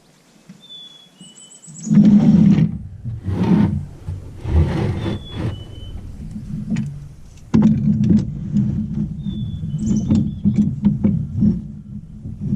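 A motor vehicle's engine running, starting up sharply about 2 seconds in, with scattered knocks and clanks. A bird gives short falling chirps several times.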